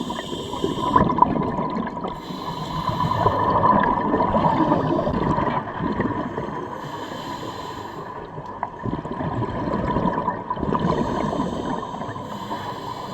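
Scuba diver breathing through a regulator underwater: a hissing inhale about every four seconds, each followed by a longer gurgling rush of exhaled bubbles, over a steady high hum.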